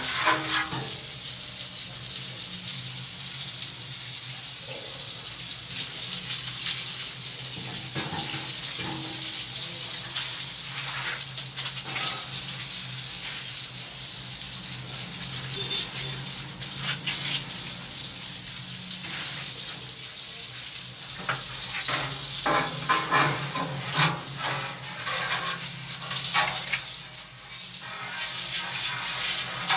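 Running water, as in rinsing, with a steady low hum underneath and scattered light knocks.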